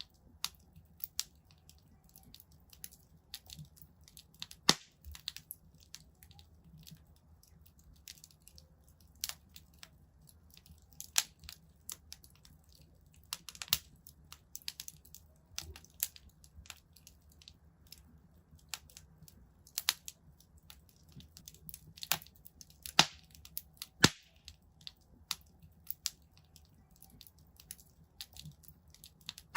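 Wood fire crackling in a fireplace: irregular sharp pops and snaps, several a second at times, over a faint low hiss of the burning logs.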